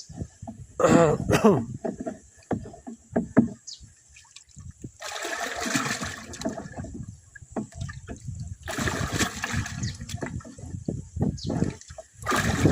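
Irrigation water splashing and trickling in a field channel as fertilizer is washed into it, with louder stretches of rushing splashes about five and nine seconds in.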